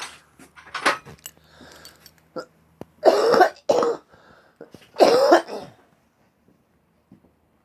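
A person coughing and clearing their throat in a few harsh bursts, the loudest a double cough about three seconds in and another about five seconds in.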